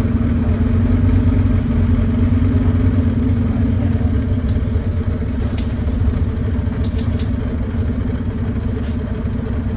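Volvo D9B 9.3-litre diesel engine of a Volvo B9TL double-decker bus running steadily, a deep drone with a leaking exhaust, with a few faint clicks in the second half.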